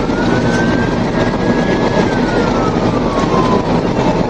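Police siren in wail mode, one slow rise and fall in pitch, starting to rise again near the end, over loud steady engine, road and wind noise from a vehicle at high speed.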